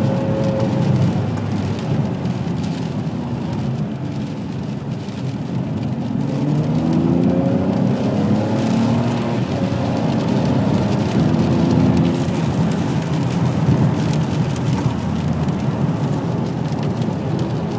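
Ferrari 599 GTB Fiorano's 6.0-litre V12 running under way. Its pitch climbs and falls back several times as the car accelerates and eases off. Tyres hiss on the wet road throughout.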